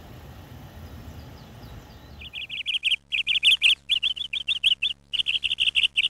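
Low steady rumble for the first two seconds, then a loud run of rapid bird chirps, in short repeated phrases with brief gaps between them.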